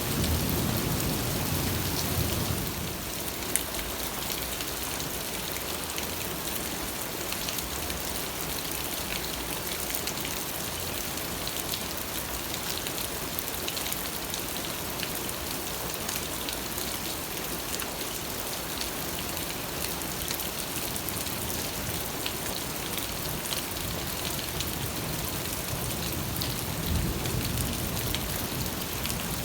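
Steady rain falling, with a dense patter of drops. A low rumble of distant thunder fades out in the first couple of seconds and comes back briefly near the end.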